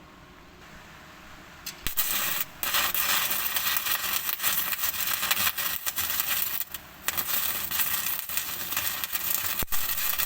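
Electric arc welding on a steel bucket: the arc's steady crackling sizzle starts about two seconds in and breaks off briefly twice.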